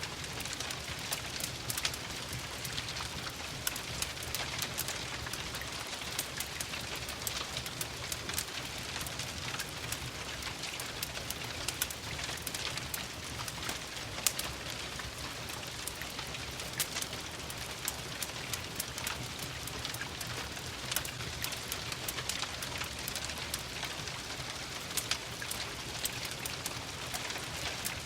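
Steady rain mixed with a crackling fireplace: a constant patter with many small sharp pops and crackles, and a low rumble underneath.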